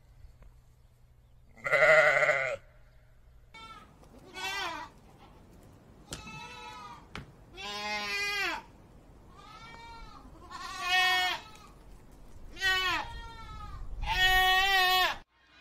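A sheep bleats once, loudly. Then a young goat bleats over and over, about eight short, wavering bleats in a row, the last one the longest.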